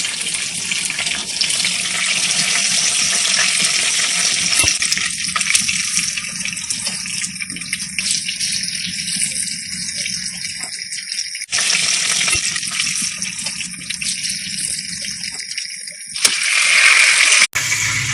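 Half-cooked chicken pieces shallow-frying in hot oil in a pan: a steady sizzling hiss with fine crackles. It breaks off abruptly about eleven and a half seconds in and comes back, and it gets louder near the end.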